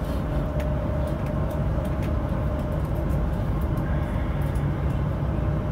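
Passenger train running at steady speed, heard from inside the carriage: a continuous low rumble with a faint steady whine and a few light ticks.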